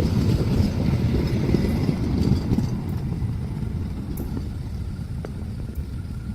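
Low rumble of a passing train, fading steadily as it moves away.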